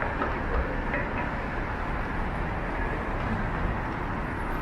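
Steady downtown street noise: the even rumble and hiss of traffic, with no single event standing out.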